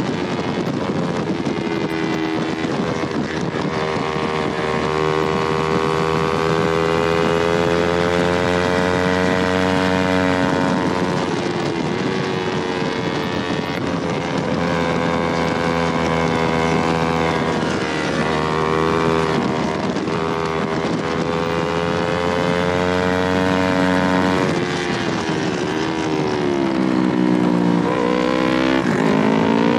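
Yamaha R3's parallel-twin engine at racing revs, its pitch climbing and falling in long sweeps as the bike accelerates and shifts. Near the end the revs drop sharply and then climb again.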